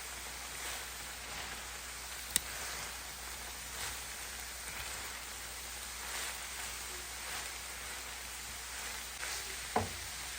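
Food frying in a pan, a steady sizzle, with a sharp click about two seconds in and a short knock near the end.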